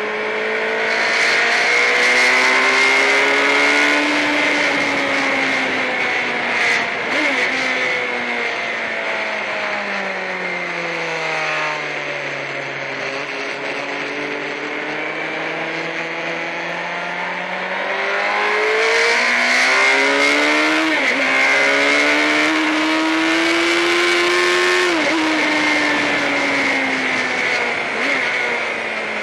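Sportbike engine on a track lap. Its note falls as the bike slows into a corner, stays low through the turn, then climbs again down the straight with brief dips at each upshift, about twice. Wind rush on the microphone swells at the higher speeds.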